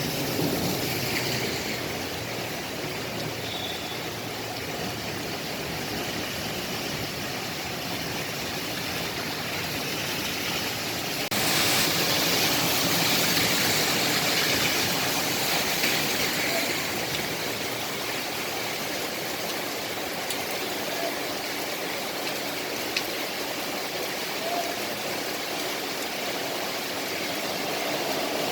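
Steady rain falling at night. Partway through it suddenly comes down harder for a few seconds, then eases back.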